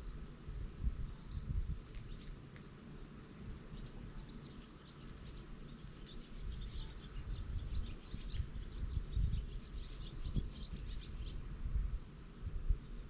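Rural outdoor ambience: an insect trilling in short high pulses about once a second, and a bird twittering for several seconds in the middle, over a low rumble.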